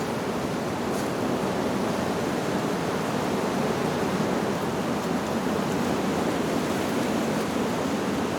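Steady rushing of wind through leaves, an even noise with no chime strikes.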